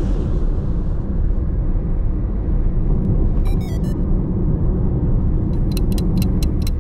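Steady low road and engine rumble of a car driving, with a run of faint ticks near the end.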